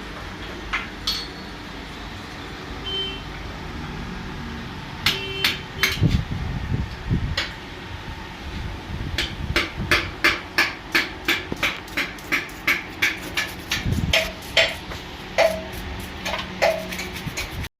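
A hammer striking metal, first a few scattered blows, then from about nine seconds in a fast run of about three blows a second, some of them ringing. A steady low hum runs underneath.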